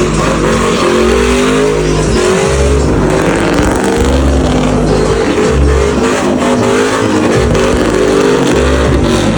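Engine revving hard, its pitch rising and falling again and again, as in a truck being driven sideways.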